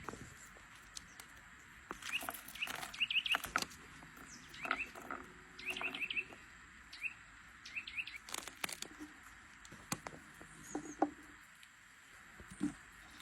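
A small bird chirping: clusters of three to five quick, high, upward-flicking notes, repeated every second or two, with a few sharper clicks.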